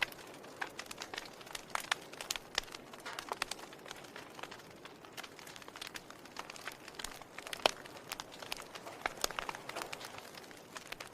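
Wood fire burning in a fireplace: irregular crackles and sharp pops over a soft steady hiss, with one louder pop a little past the middle.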